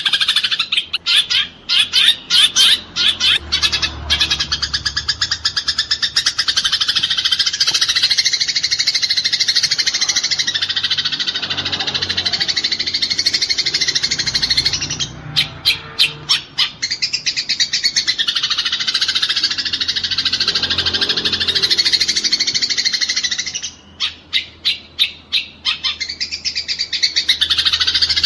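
Eurasian tree sparrows chattering densely and continuously in the high-pitched, rapid-fire calls of sparrows fighting. Three times, near the start, in the middle and near the end, the chatter breaks into a run of separate sharp chirps at about four or five a second.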